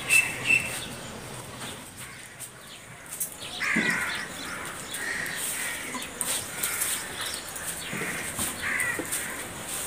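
Birds calling: a quick run of short, high chirps at the start, then harsher calls repeated every second or so from about four seconds in.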